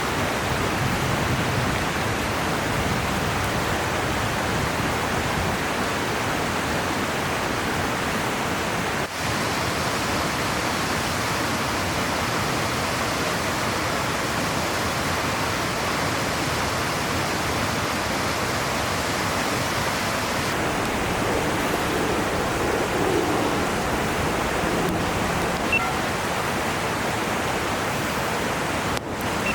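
River water rushing in a steady, even roar.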